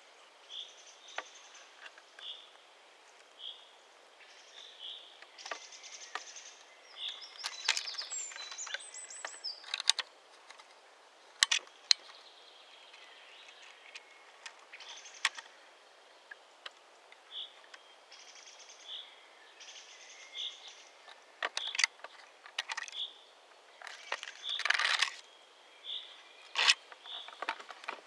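A bird's short high call note repeated about once a second. Over it come rustling and sharp crackles of spruce twigs as the pole-mounted camera pushes through the branches; these crackles are the loudest sounds.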